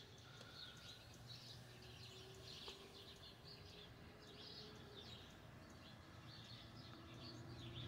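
Near silence outdoors, with small birds chirping faintly and repeatedly in the background over a faint low steady hum.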